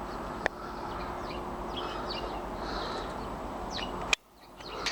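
Outdoor garden background: a steady rush of wind and distant noise with a few faint chirps from small birds. A single click about half a second in, and the sound drops away abruptly near the end.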